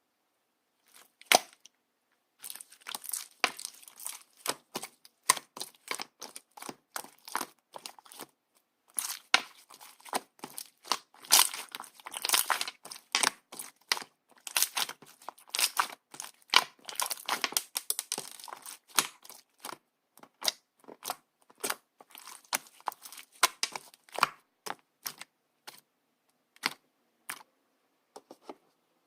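Clear slime being squished, pressed and pulled by hand, with quick irregular popping and crackling clicks. The clicks are sparse for the first two seconds, come thickest through the middle, and thin out near the end.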